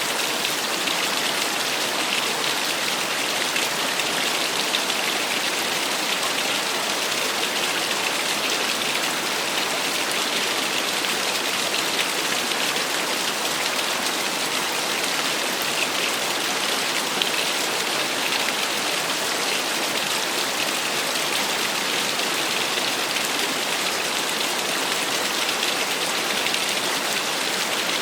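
Small waterfall: water pouring and splashing in a steady, even rush with a bright, hissy spatter.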